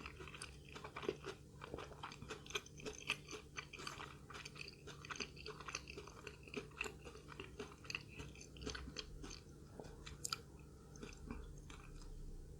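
Close-up crunching and chewing of a crisp fried spring roll, dense crackling bites thinning to softer chewing near the end.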